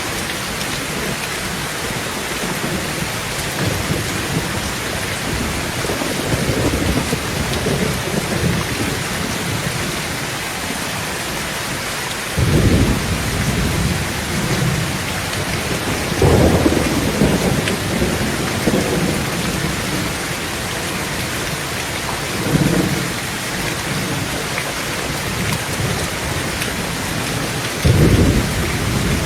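Heavy rain falling steadily on a tin roof, with thunder rumbling several times. The sharpest peals break in suddenly, a little before halfway and near the end.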